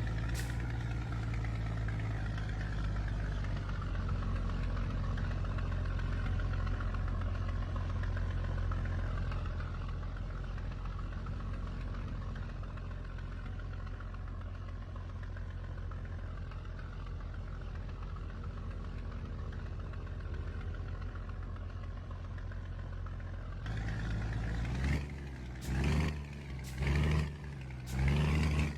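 Scania truck's diesel engine running steadily under way, a constant low drone. Near the end, a run of short loud bursts comes about a second apart.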